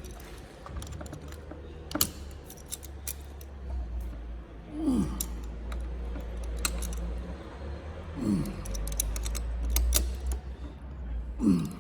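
Hand tool tightening bolts on motorcycle handlebar risers: irregular metallic clicks and taps, with a short falling creak three times.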